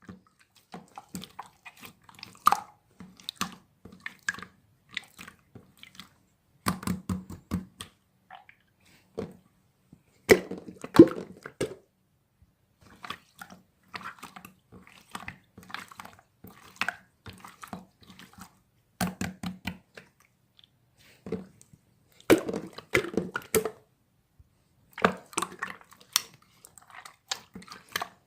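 Slime being squished and worked by hand, with irregular bursts of wet clicks and crackling pops separated by short pauses.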